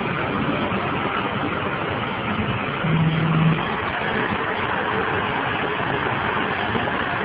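Steady noise of road vehicles, with a short low steady tone about three seconds in.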